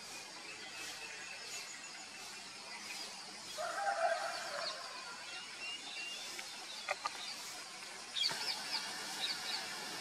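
Birds calling outdoors: a short, lower pitched call about four seconds in, a sharp click near seven seconds, and then a run of quick, high chirps near the end.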